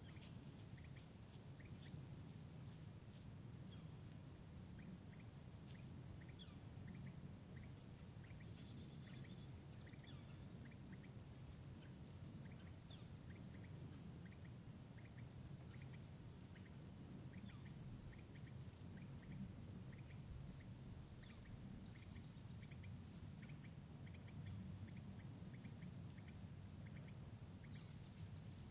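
Faint outdoor ambience: many short, high bird chirps and calls scattered over a steady low rumble.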